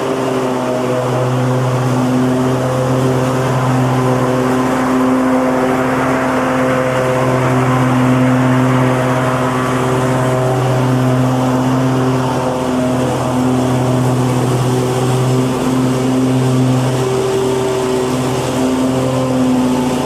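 Petrol lawnmower engine running steadily at a constant speed under load, with a slight waver in its pitch and loudness.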